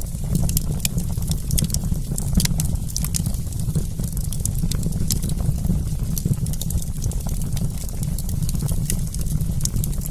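Wood campfire crackling: many small, irregular sharp pops over a steady low rumble of the burning fire.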